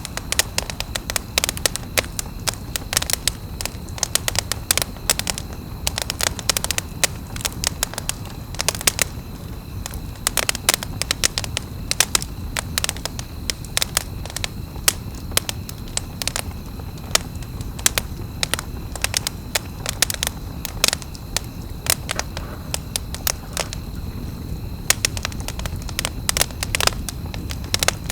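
Wood campfire burning, crackling with frequent irregular sharp pops and snaps over a steady low rumble of the flames.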